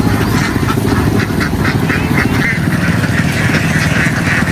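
A flock of domestic ducks quacking, many short calls overlapping, over a steady low engine hum.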